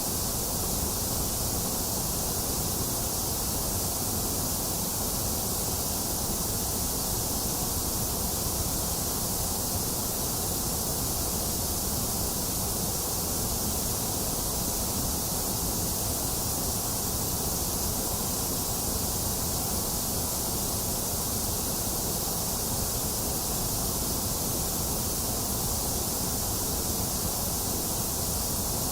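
Box fan running steadily, blended with steady rain: a constant, unbroken whooshing hiss with strong high hiss and a low rumble, without thunder.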